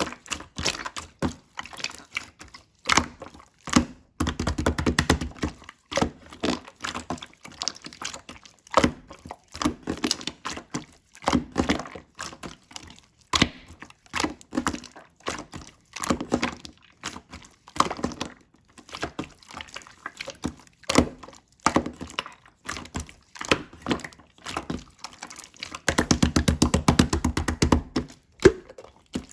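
Hands playing with slime: irregular sticky pops and clicks as it is pressed, folded and pulled. There are two stretches of rapid, dense clicking, about four seconds in and again near the end.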